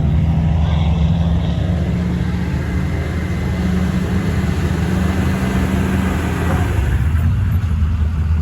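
Diesel pickup truck engine running with a deep, steady drone.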